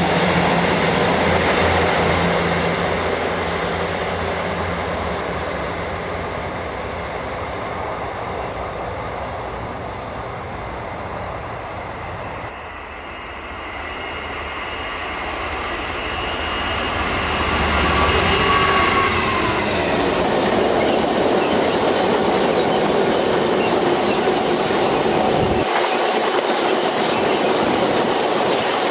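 A train passing on the main line, its wheels running steadily on the rails. The noise eases off through the middle, then builds again with a faint high squeal about two-thirds of the way through.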